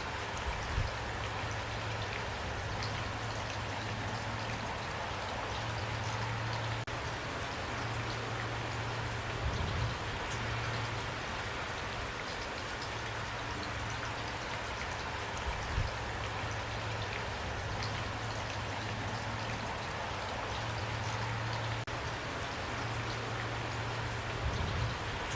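Steady rainfall: an even hiss of many raindrops, with a few brief low thumps spaced several seconds apart.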